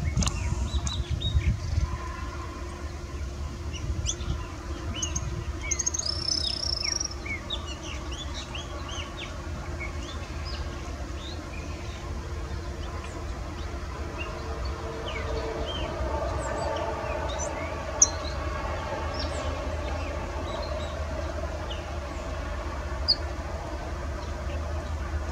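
Scattered short, high bird chirps from small birds, over a steady low rumble. A faint lower hum joins about halfway, and there is a single sharp click later on.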